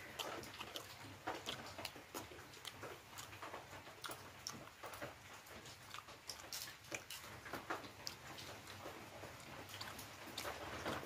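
A person chewing and smacking while eating: irregular wet mouth clicks and smacks, several a second.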